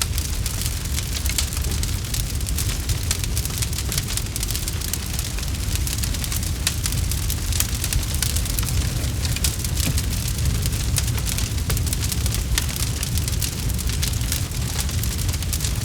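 Campfire burning, with a steady low rumble of flames and dense, irregular crackling and popping of the wood.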